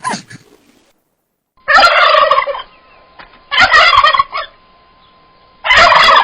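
A bird calling three times in loud calls of about a second each, spaced about a second apart, the third starting near the end.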